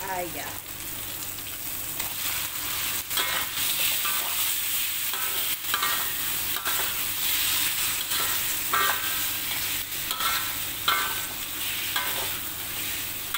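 Raw chicken pieces sizzling in hot oil in a metal wok while a metal spatula stirs and turns them, with repeated short scrapes and clinks of the spatula against the pan over the steady sizzle.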